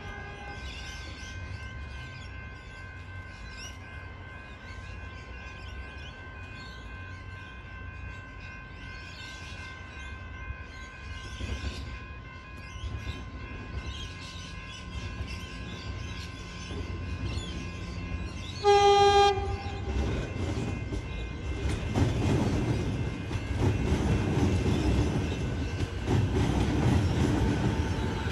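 Train at a station: a faint steady whine, then one short horn blast about two-thirds of the way through, followed by the low rumble and wheel clatter of a train growing louder as it comes through.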